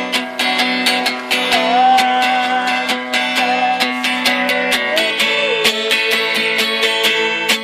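Acoustic guitar strummed in a steady rhythm, about three strums a second, with a held melody line gliding in pitch over the chords.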